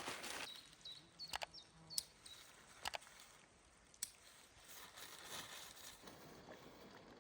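Rustling and a few sharp snaps of forest undergrowth, as of stems or twigs being handled or stepped on, with several faint short high bird chirps in the first two seconds.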